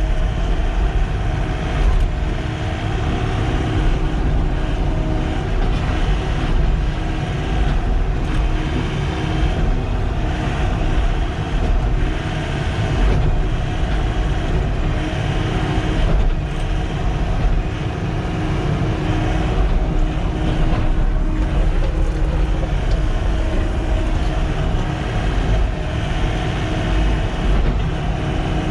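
Diesel engine of a Sany SY95 excavator running steadily at working speed, with a continuous low rumble.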